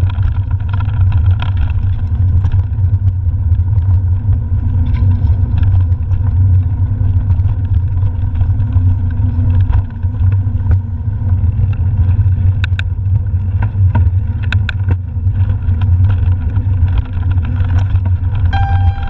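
Steady wind rumble on the microphone of a camera riding along on a mountain bike, with a few sharp clicks and rattles from the bike over rough ground. Music starts just at the end.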